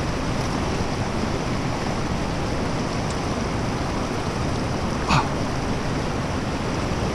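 Fast-flowing stream water rushing steadily, with a brief sharp sound about five seconds in.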